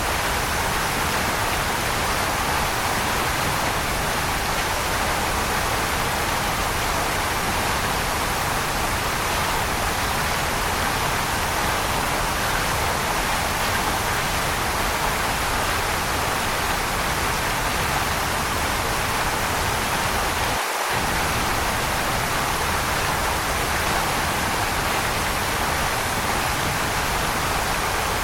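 Waterfall: a steady, even rush of falling water, strongest in the middle of the range, with a momentary drop in the low end about two-thirds of the way through.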